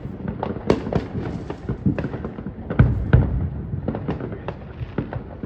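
Fireworks going off in quick, irregular succession: many sharp bangs and pops, the loudest two deep booms about three seconds in.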